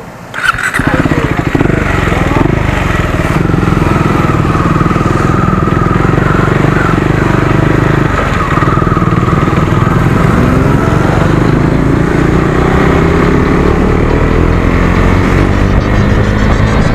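KTM Duke 390's single-cylinder engine running loud through an exhaust with the dB killer removed. It comes in suddenly about half a second in and runs steadily, then its pitch climbs slowly over the last few seconds as the revs rise.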